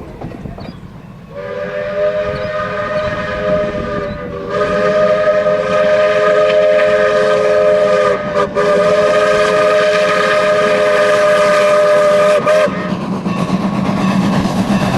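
Norfolk & Western 4-8-0 No. 475 steam locomotive's whistle blowing several notes at once, in one long sounding of about eleven seconds split by two brief breaks. After it, the steady running noise of the train.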